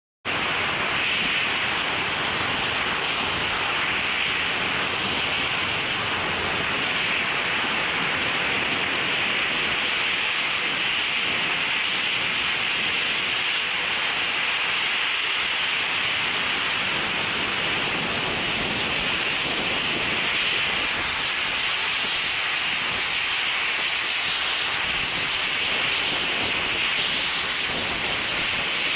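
Steady hiss of steam from a steam locomotive, even and unbroken.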